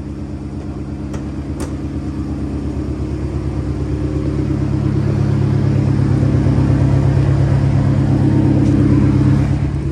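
BMW F10 M5's twin-turbo V8 running at a steady idle, with an even pulsing and no change in pitch; it grows gradually louder and then drops away near the end. Two faint clicks a little over a second in.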